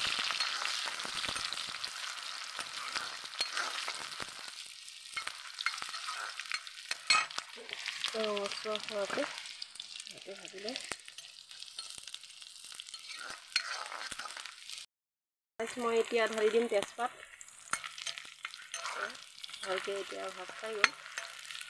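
Onions and green chillies sizzling in hot mustard oil in a black iron kadai, stirred with a steel spoon that scrapes and clicks against the pan. The sizzle is strongest at first and thins out as the onions soften.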